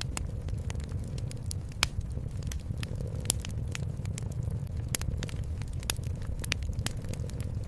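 Wood fire crackling, with irregular sharp pops and snaps, two of them louder about two and three seconds in. Under it runs a steady low cat purr.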